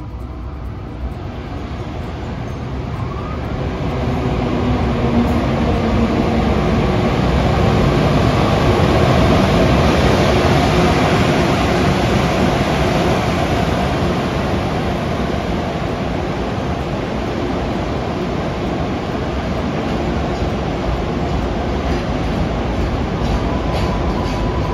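A train running past close by, the rumble and rail noise swelling over the first several seconds and then holding steady. A thin steady high tone joins near the end.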